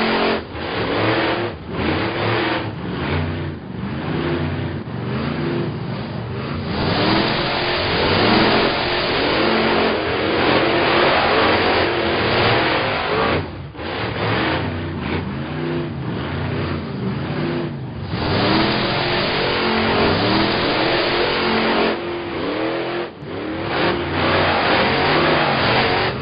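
Engine sound effect for animated monster trucks: engines revving over and over, each rev rising and falling in pitch above a rough, noisy rumble, with a few brief drops in level.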